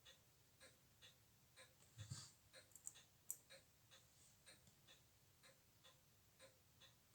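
Near silence with faint, even ticks about twice a second, and a few soft clicks around two to three seconds in.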